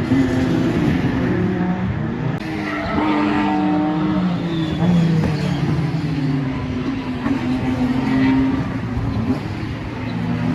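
Several racing car engines running on a circuit at once, their pitch rising and falling as the cars accelerate and slow.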